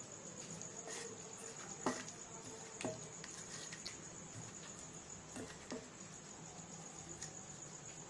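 Hands working a spice marinade into slashed chicken pieces, with a few soft wet clicks, over a steady high-pitched cricket trill in the background.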